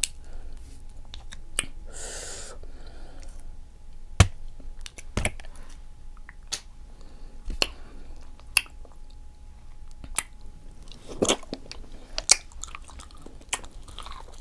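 A person chewing seafood-boil food, with scattered wet clicks and smacks of mouth and teeth and a short rustling patch about two seconds in.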